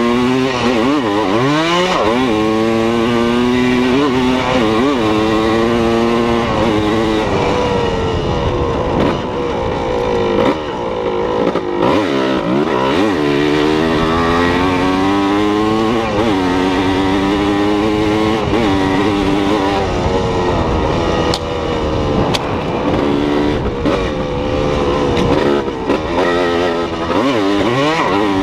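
An engine revving again and again, its pitch climbing and dropping back without a break.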